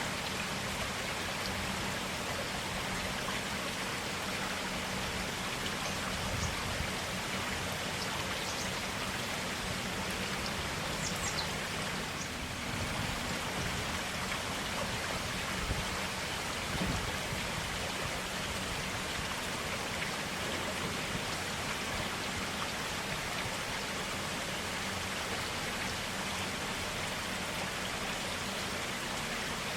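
Clear forest stream running steadily, an even water rush.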